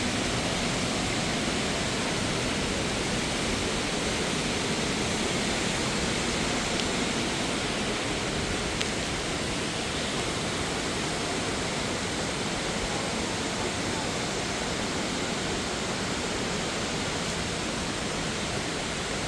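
Steady, unbroken rushing of water, as from a mountain waterfall or fast stream.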